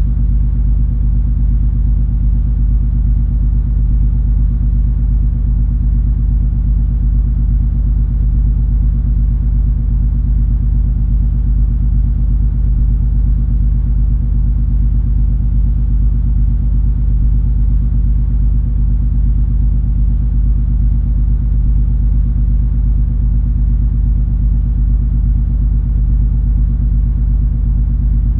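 Cruise ferry MS Color Fantasy under way, heard on board: a steady, unbroken low rumble of the ship's engines and machinery, with a constant hum in it.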